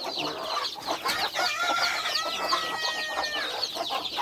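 Chickens clucking in a coop, with many short, high peeps from chicks throughout and one long, drawn-out call starting about two seconds in.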